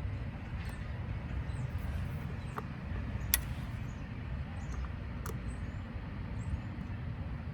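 Steady low background rumble with a few sharp clicks as motorcycle carburetor and air box parts are worked on by hand, the loudest click about a third of the way in.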